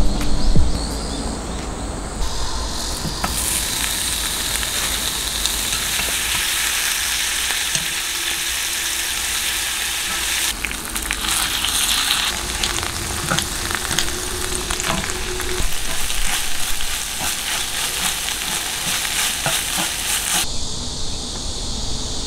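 Food sizzling and frying on a hot griddle while a utensil stirs it, with scattered clicks and scrapes. The sizzle swells a few seconds in and drops off suddenly near the end.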